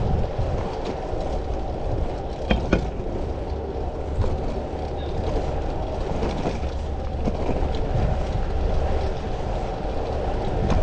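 Steady rush of wind on the microphone and rumble of road noise while riding a fixed-gear bicycle, with a few short clicks or rattles a couple of seconds in and again around four seconds.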